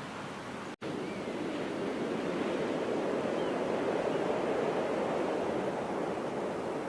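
Ocean surf breaking on the shore at a river mouth: a steady wash of waves that swells to its loudest a couple of seconds in and slowly eases. The sound drops out for an instant near the start.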